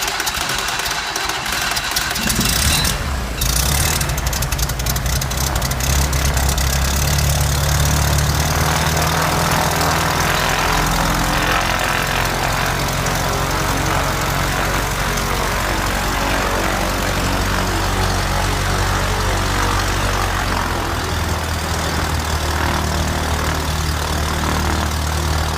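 The rebuilt 1915 cc engine of a Fournier RF5B motor glider on its first start after rebuild: it turns over briefly, catches about two seconds in, and then runs steadily with its propeller turning. The speed comes up a little around seven seconds and eases back near ten.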